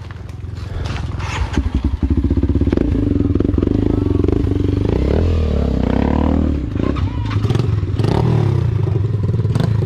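Enduro dirt bike engine running and revving unevenly at low speed on a rough trail; it picks up about two seconds in, its pitch rising and falling, with knocks and clatter from the bike over the ground.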